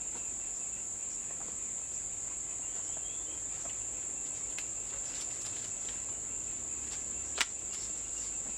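Forest insects keep up a steady, high-pitched drone. A single sharp knock stands out about seven seconds in, with a few fainter clicks before it.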